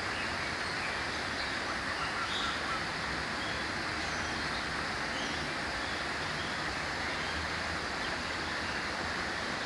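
Steady rush of running water with a few faint, brief bird calls over it.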